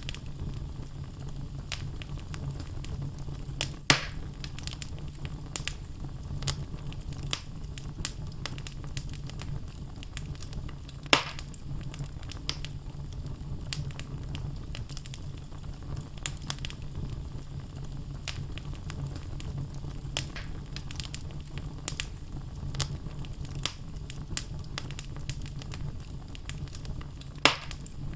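Wood logs burning in a fireplace, crackling with frequent small snaps over a steady low rumble of the fire. Three louder pops stand out: one about four seconds in, one a little before the middle, and one near the end.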